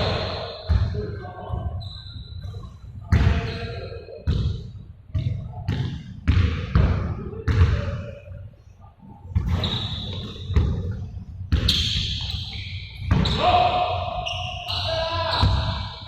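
Basketballs bouncing on a hard court floor in an echoing gym: many irregular thuds, mixed with voices and short high-pitched squeaks or calls.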